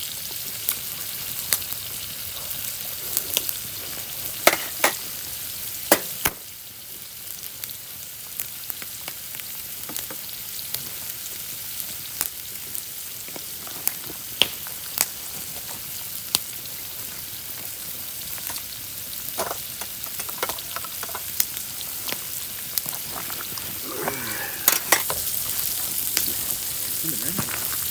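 Food frying in hot oil: a steady sizzling hiss with frequent sharp pops and spits of oil.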